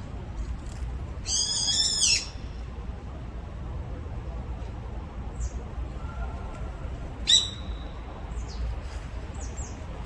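Brown-eared bulbul calling: a loud, harsh, wavering squeal just over a second in, a sharp call falling in pitch a little after seven seconds, and a few faint short chirps between. A steady low rumble runs underneath.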